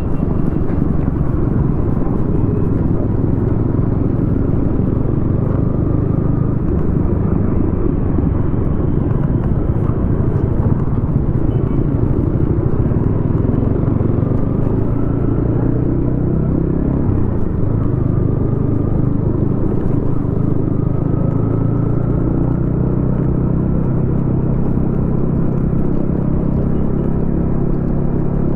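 Yamaha XSR155's single-cylinder 155 cc engine running through a DIY aftermarket exhaust as the bike is ridden, its pitch rising and falling with the throttle, with a dip in pitch about halfway through.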